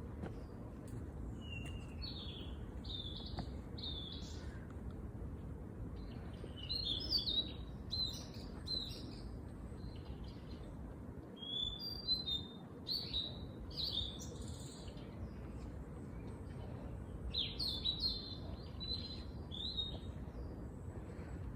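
Small songbirds chirping and twittering in short bright phrases, in bursts a few seconds apart, over a steady low background hum.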